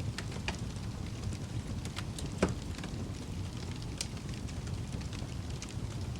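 Fireplace wood fire burning with a steady low rush of flames and scattered crackles and pops, one sharp pop about two and a half seconds in standing out as the loudest.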